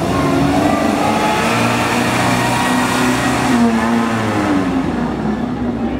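Vintage car's engine revving as it accelerates through a slalom of cones. The engine note climbs, drops briefly about three and a half seconds in, then climbs again.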